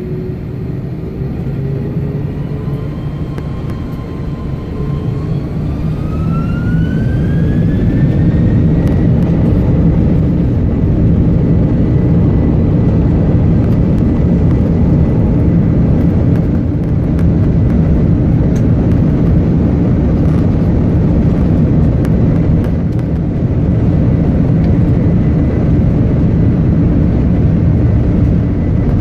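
Jet airliner engines spooling up for takeoff: a whine rising in pitch over a few seconds while the heavy rumble grows louder, then holding as a steady roar through the takeoff roll.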